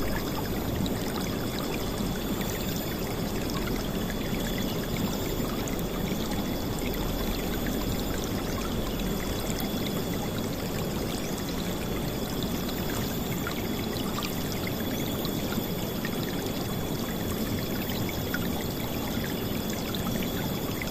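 River water flowing and splashing, a loud, steady rush.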